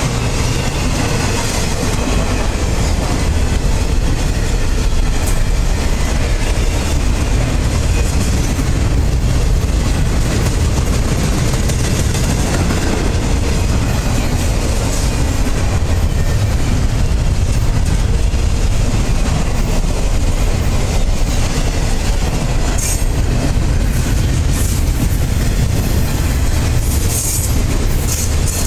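Intermodal freight train's cars rolling past: steady noise of steel wheels running on the rails, with a few short high squeals near the end.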